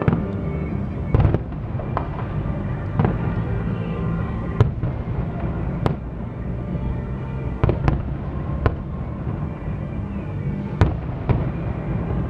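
Fireworks display: a string of sharp bangs from aerial shells bursting, roughly one every second or so, over a steady low rumble.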